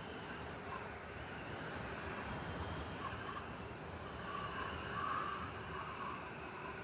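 Blizzard wind blowing in a steady rush, with a higher-pitched layer that swells about four to five seconds in.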